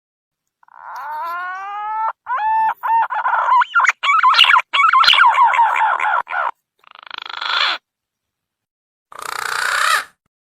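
Green pigeon (punai) calls used as a lure call: a rising whistled note, then a run of short wavering whistles and a longer warbling phrase, followed by two short hoarse bursts near the end. The calls are separated by gaps of dead silence.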